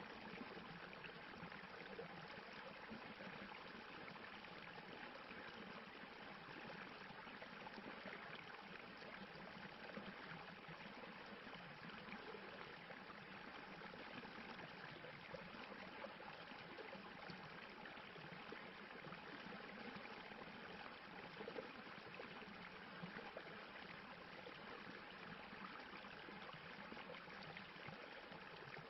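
Faint, steady rushing of a stream splashing over rocks, with no let-up or change.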